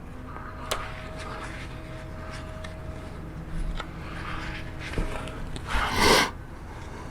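Small handling noises while gear oil is being added to a motorcycle final drive: scattered clicks and taps, and a short louder rustle about six seconds in, over a low steady hum.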